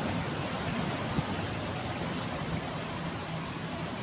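Steady rushing noise of floodwater flowing, with one short knock about a second in.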